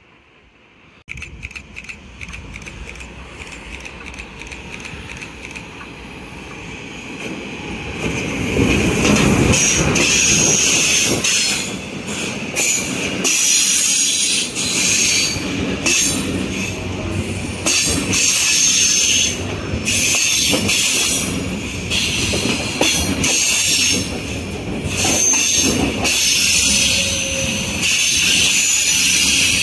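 A train passing at close range: it approaches for several seconds, then runs by loudly with steel wheels squealing and repeated clicks over the rail.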